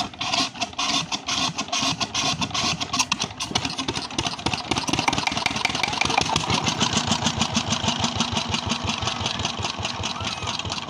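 Old Peter diesel engine of a tubewell pump catching after being started, its firing strokes spaced out and uneven at first, then speeding up into a steady run about four seconds in.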